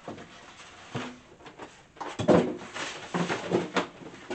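Knocks and clatter of packing and metal parts being handled in a cardboard box, with a loud clunk a little over two seconds in and several smaller knocks after it.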